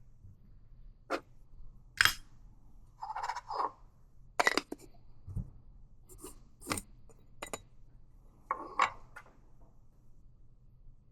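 Coffee-making handling sounds: a string of separate clinks and knocks of glass, crockery and metal utensils, with a couple of brief scrapes.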